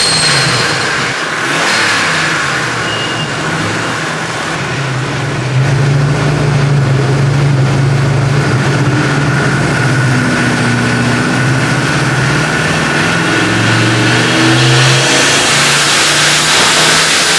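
Ford Mustang Cobra V8 with a single T76 turbo running loud and revving, its engine note over a broad rush of exhaust and intake noise. It steps up in loudness about five seconds in and the pitch wavers near the end.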